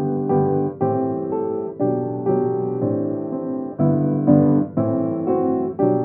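Piano playing slow chords, a new chord struck about every half second and fading before the next.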